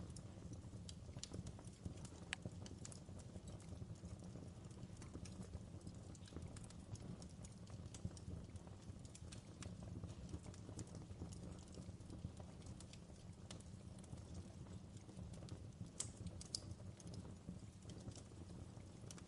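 Faint fireplace crackle: a steady low rumble of the fire with irregular sharp pops and snaps scattered throughout.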